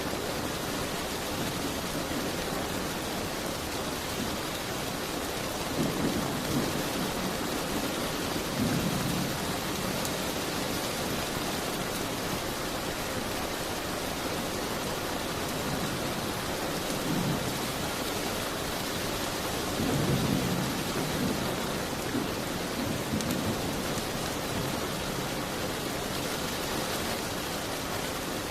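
Steady rain beating on a window, with several short low rumbles swelling up at intervals.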